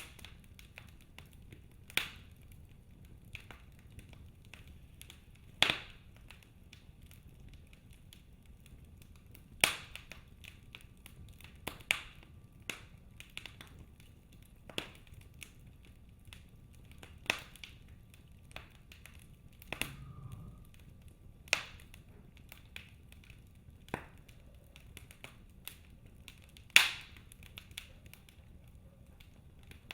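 Logs burning in a fireplace, crackling with irregular sharp pops every second or few and small ticks between them, the loudest pop near the end, over a faint low rush of the fire.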